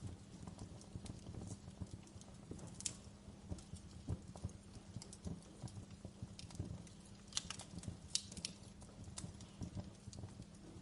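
Wood fire burning in a fireplace, crackling with a steady low rumble and irregular pops, a few sharper cracks near the middle.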